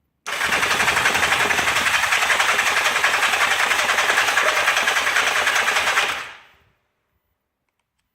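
Electric starter cranking the Kawasaki Zephyr 750's air-cooled inline-four engine, a fast even whirring chatter that starts abruptly and stops after about six seconds without the engine catching. This is a cold cranking attempt on a barn-find engine with freshly cleaned carburettors.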